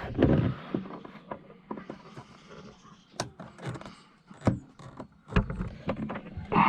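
Irregular clicks and knocks of plastic car-door interior trim being handled and fitted into place.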